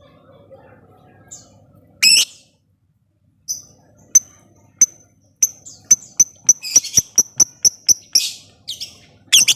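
Lovebird calling: a harsh shriek about two seconds in, then a run of short, sharp ticking chirps that speeds up to about four a second, broken by louder shrieks near the end.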